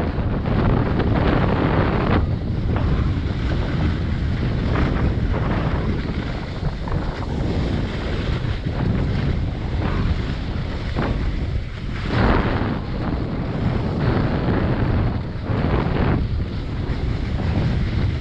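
Wind buffeting a camera microphone carried by a moving skier: a steady low rumble. Over it, the hiss of skis sliding on snow swells up and fades again every second or few.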